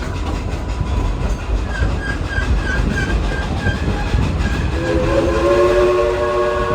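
Steam train running with a steady low rumble and clatter; about five seconds in, the locomotive's steam whistle, a 2-8-2, sounds a long chord that is still blowing at the end.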